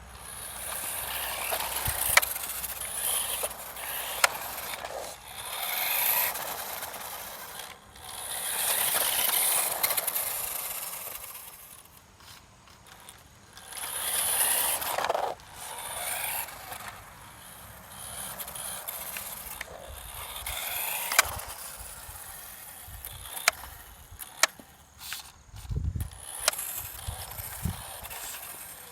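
Radio-controlled road racing car driving on a hard surface. The hiss of its motor and tyres swells up and fades away again and again as it runs past, with sharp clicks here and there.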